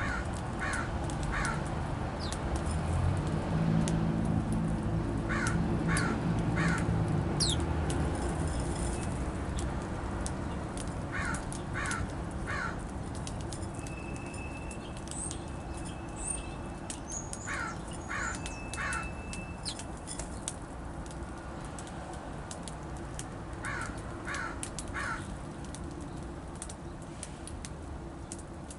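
A bird calling in sets of three harsh notes, repeated about every six seconds, while small birds chirp in short high notes. A low rumble in the first several seconds fades out by about nine seconds in.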